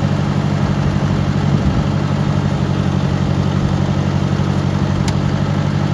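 Ford 640 tractor's four-cylinder engine idling steadily, with a brief uneven beat about one and a half seconds in and a single sharp click near the end.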